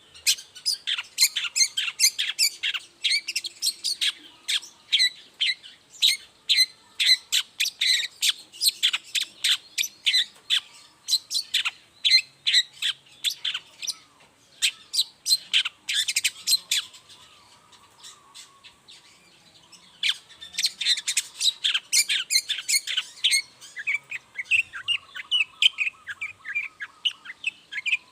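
Long-tailed shrike (cendet) singing a fast run of sharp, repeated chattering notes. The song drops off for about two seconds roughly two-thirds of the way through, then starts again just as densely.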